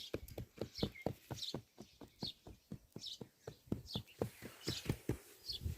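Rapid soft taps, about five a second, with a bird chirping repeatedly over them.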